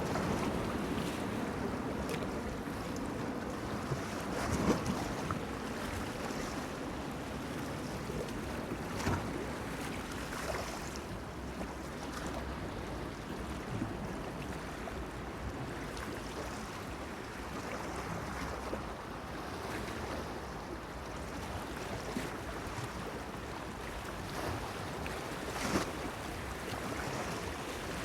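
Small waves lapping and splashing against a pier over a steady wash of water and wind, with a few louder splashes, the loudest about five seconds in and near the end.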